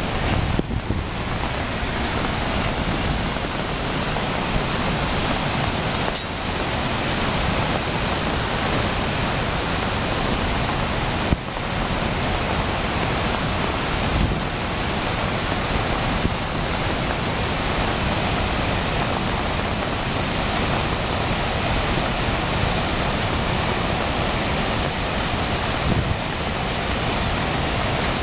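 Harajiri Falls running in full flood after heavy rain: a steady, loud rush of falling water.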